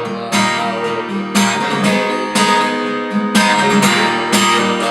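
Acoustic guitar strummed in a fast rhythmic pattern, with a heavy accented stroke about once a second and lighter strokes between, moving between chords.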